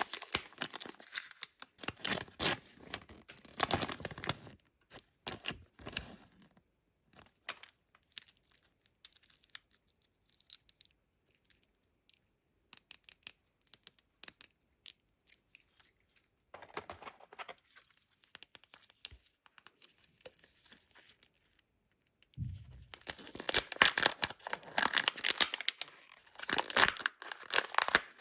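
Kinder Joy egg wrappers being torn open and crinkled by hand, in dense bursts at the start and again for the last several seconds, with scattered small clicks and rustles in the quieter middle stretch.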